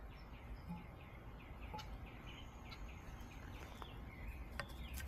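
Faint birds chirping in quick runs of short repeated notes, with a few light clicks near the end.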